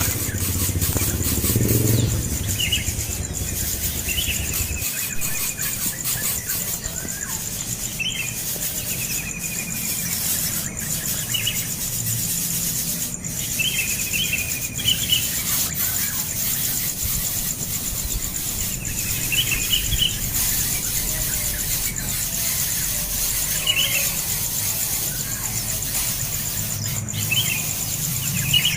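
Young bird giving short, high squealing calls, each a quick falling note, in clusters of one to three every few seconds.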